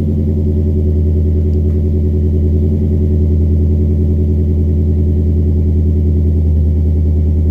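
2004 Nissan Titan's 5.6-litre V8 idling steadily through a Flowmaster double-chambered exhaust, a low, even exhaust note with no revs.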